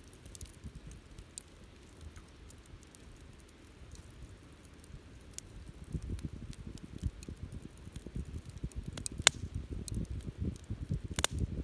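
Wood campfire crackling, with scattered sharp pops and a low fluttering of flames that grows louder about halfway through. Two loud pops come near the end.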